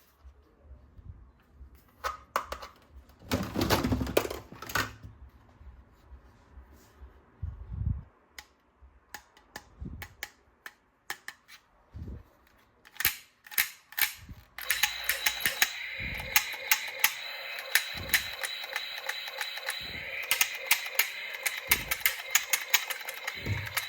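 Scattered clicks and rattles of hard plastic toy parts being handled. About two-thirds of the way in, a steady buzzing tone starts and runs on under further clicks.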